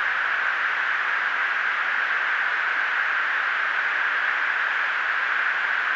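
Steady hiss of a fighter jet's cockpit radio audio between the crew's transmissions, an even mid-pitched noise with no voices.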